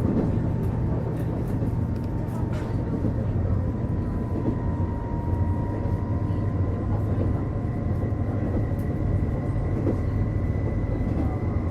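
Running sound heard inside a KiHa 48 diesel railcar under way: a steady diesel engine and wheel drone, with a thin steady whine above it and a few faint clicks from the running gear.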